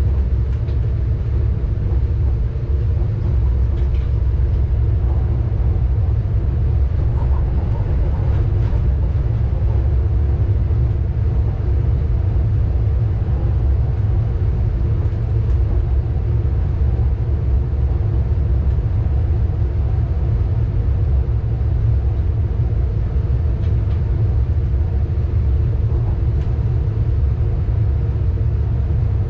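Steady low rumble of a passenger train running at speed, heard from inside the driver's cab.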